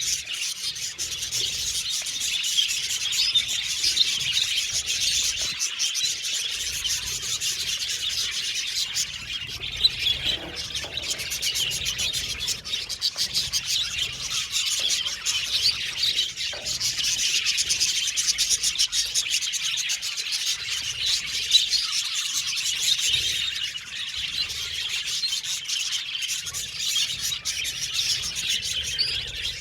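A flock of budgerigars chirping and chattering at once, a dense, unbroken twitter with no pauses.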